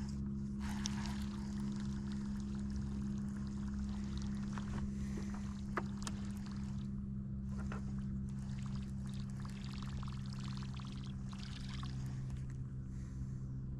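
A boat motor running steadily with an even, unchanging hum, with a few faint ticks and water hiss over it.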